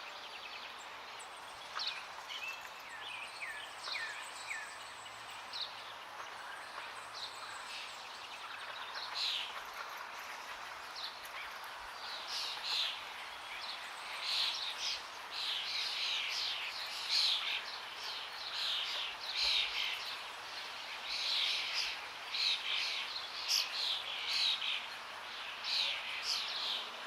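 Songbirds chirping and trilling over a steady rush of flowing water. The birdsong grows busier about halfway through.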